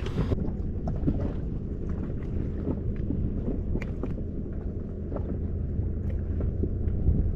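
Steady low rumble of wind buffeting the microphone on a small boat at sea, with scattered light clicks and knocks.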